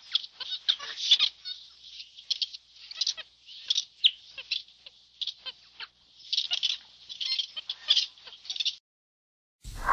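A quick, irregular string of short, high-pitched squawking calls, some in tight clusters, stopping about a second before the end.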